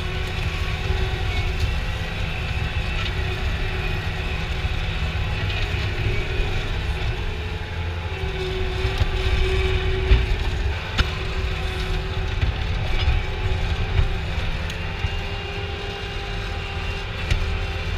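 A vehicle running steadily: a low engine rumble with a faint steady hum over it and a few light knocks.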